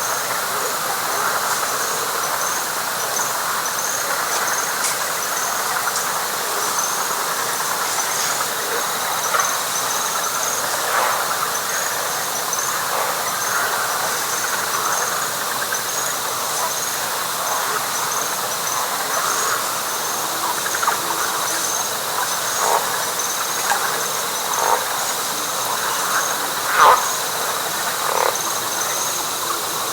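Night chorus of frogs calling together in a dense, steady mass, with louder single calls standing out in the second half, the loudest near the end. Above it runs a steady high insect trill and an evenly repeating high chirp.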